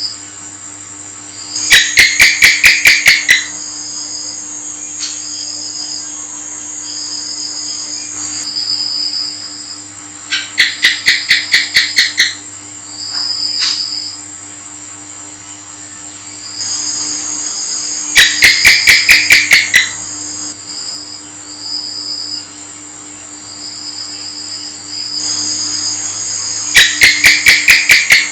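House gecko (cicak) calling: four bouts of rapid 'chek-chek' chirps, each about eight or nine sharp clicks over two seconds, spaced several seconds apart. A steady high-pitched trill and drone runs underneath.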